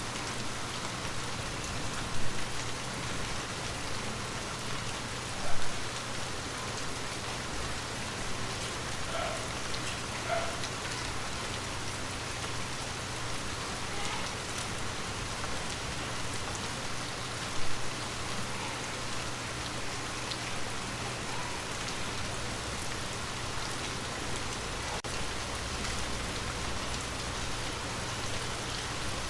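Steady light rain falling on a window glass, with a low steady hum underneath. Three louder single drops strike about two, five and a half, and seventeen and a half seconds in.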